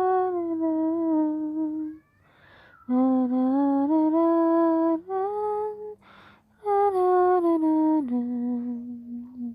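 A woman humming a slow lullaby without words: phrases of long held notes that step down in pitch, with short breaths between them.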